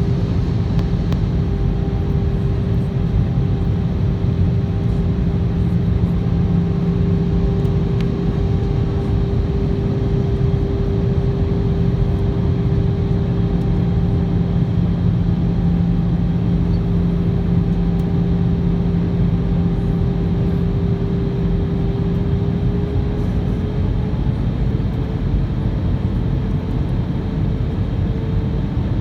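Airbus A320 engines and airflow on the approach to landing: a steady roar with a humming engine tone that rises slightly about 23 seconds in.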